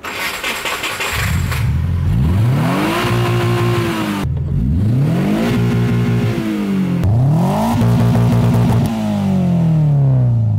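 Car engine revved hard and repeatedly through a large aftermarket exhaust, its pitch climbing and falling in about three sweeps, with the tachometer near the 7,000 rpm redline.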